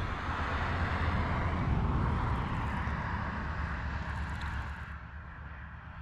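A motor vehicle passing by, its engine and noise swelling over the first couple of seconds and fading away near the end.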